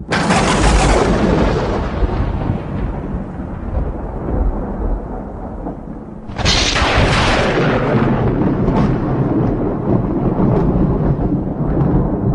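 Thunder: a sudden loud thunderclap that rolls and rumbles away, then a second sharp crack about six seconds later with a long rolling rumble after it.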